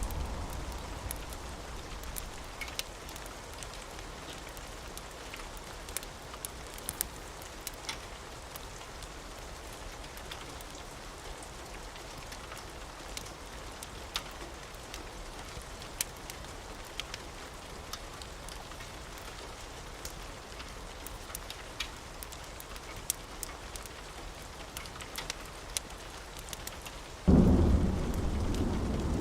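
Steady rain with scattered sharp ticks throughout. A low thunder rumble dies away over the first few seconds, and a sudden loud rumble of thunder breaks in near the end.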